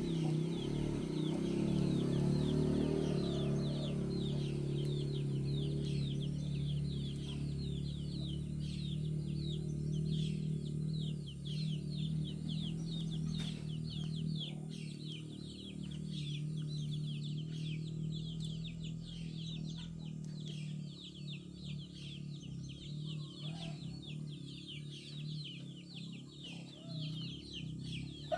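A flock of chickens clucking steadily, with a fast, unbroken high chirping of small birds over it. Both grow a little quieter in the second half.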